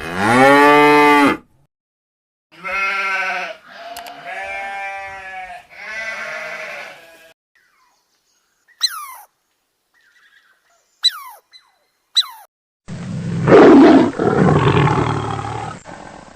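A run of separate animal calls: one long pitched call, three shorter pitched calls, three quick falling chirps, then a rough roar for about three seconds near the end.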